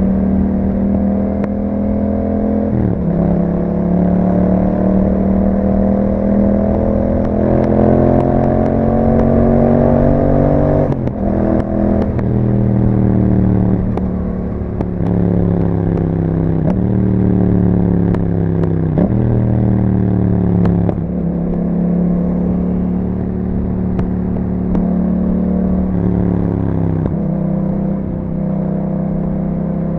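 Yamaha MT-07's 689 cc parallel-twin engine running through an Akrapovic exhaust under acceleration. The revs climb in a long pull and drop sharply at each gear change, about 3 and 11 seconds in, followed by several shorter rises and drops.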